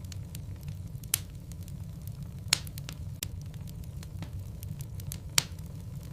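Logs burning in a fireplace: a steady low rumble of flames with frequent small crackles, and three louder pops, about a second in, midway and near the end.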